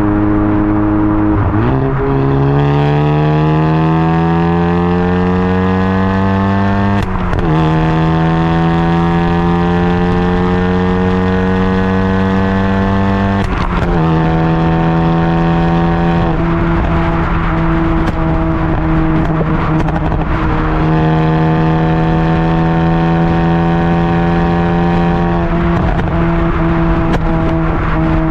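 Exhaust note of a Hyundai i20 N's turbocharged four-cylinder through a Milltek exhaust, heard close at the tailpipe under hard acceleration. The engine pitch climbs steadily and drops sharply at an upshift about seven seconds in, climbs again to a second shift about halfway, then holds fairly steady before climbing once more to a third shift near the end. Each shift brings a brief crack.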